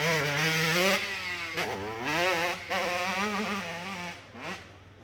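Motorcycle engine revving hard as it climbs the hill, its pitch rising and falling with the throttle, then dying away near the end.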